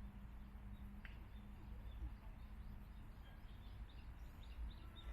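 Small birds chirping faintly in quick runs of short high chirps, over a steady low outdoor rumble.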